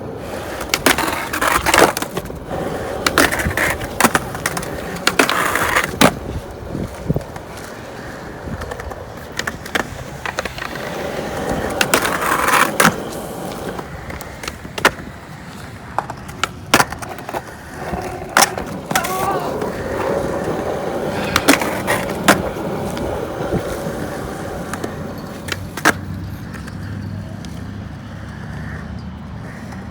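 Skateboard wheels rolling on skatepark concrete, broken by many sharp clacks of boards popping, landing and slapping down at irregular intervals.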